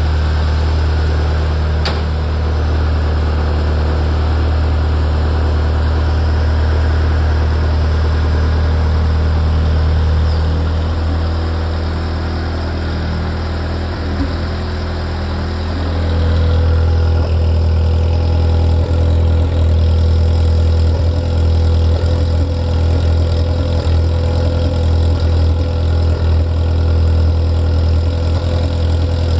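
Ferrari F355's V8 engine idling steadily. About halfway through the sound changes: a high hiss fades and the low engine note grows slightly louder, with a steady mid-pitched hum.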